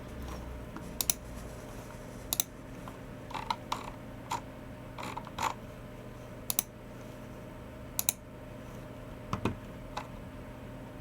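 Scattered clicks and taps from a Logicool (Logitech) G304 mouse and MX Keys Mini keyboard: about a dozen separate sharp clicks, several in quick pairs, with softer key taps between them rather than continuous typing. A steady low hum runs underneath.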